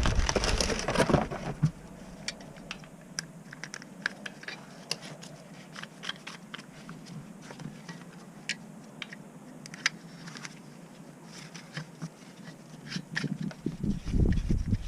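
A loud burst of rushing, handling noise at the start gives way to scattered light clicks and taps, irregular and a few each second. Low rumbling noise rises again near the end.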